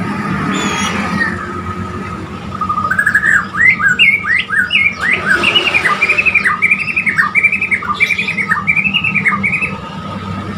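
White-rumped shama (murai borneo) singing: a fast run of short, repeated whistled notes that starts about two and a half seconds in and stops near the end, over a steady high background tone.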